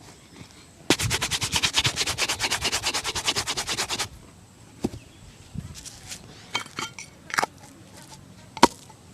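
Shoe brush scrubbed rapidly back and forth over a shoe, about ten strokes a second for some three seconds, then scattered light taps and clicks with one sharp click near the end.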